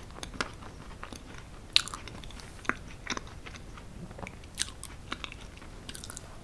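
A person chewing a mouthful of soft chocolate mousse cake with sour cherries, with scattered small mouth clicks and smacks.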